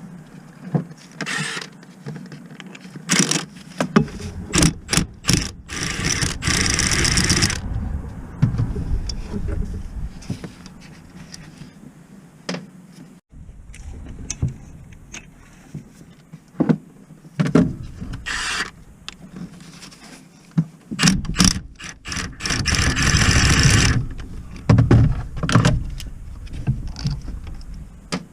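Metal tools clicking, knocking and scraping during work on a car, with two longer noisy bursts of about a second and a half, one in each half.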